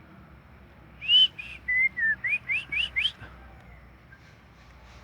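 Human whistling imitating a female white-rumped shama's call to stir the bird's response. It comes as a quick run of about eight clear whistled notes, mostly short rising glides, starting about a second in and ending about three seconds in.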